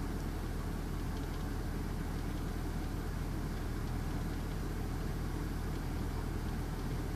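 Steady, even low rumble of a motor vehicle.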